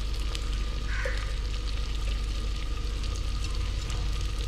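Tomatoes and masala frying in oil in a clay pot: a steady sizzle with scattered small crackles over a low rumble.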